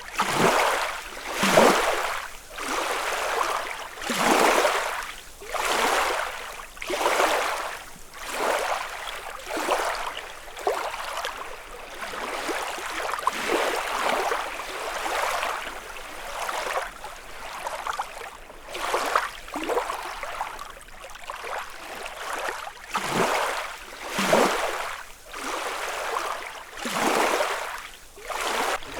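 Small lake waves lapping against the shore, each one washing in with a splash about every two seconds, some louder than others.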